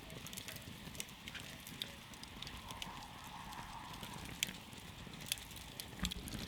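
Campfire crackling, with irregular sharp pops scattered over a low steady rumble of the flames.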